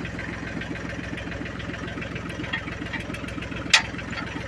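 Ford 1720 tractor's three-cylinder diesel engine idling steadily with an even rapid pulse, and one sharp metallic clank near the end.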